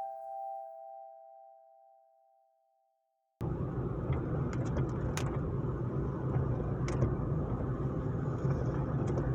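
A music note from a mallet instrument dies away, then after a brief silence steady car driving noise cuts in abruptly: a low rumble of engine and road with a few faint clicks.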